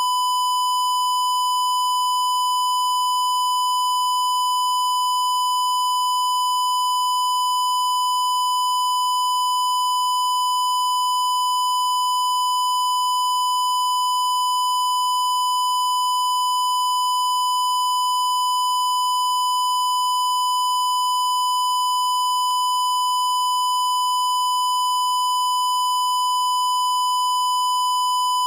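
A single high-pitched electronic beep tone held at one steady pitch without a break, with a slightly buzzy edge.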